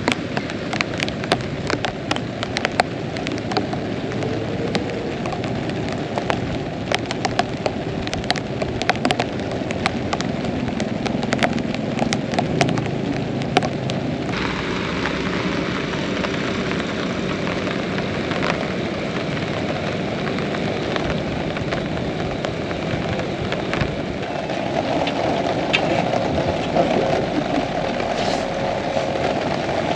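Heavy rain falling steadily, with many sharp individual drop hits. About halfway through the hiss becomes denser and fuller.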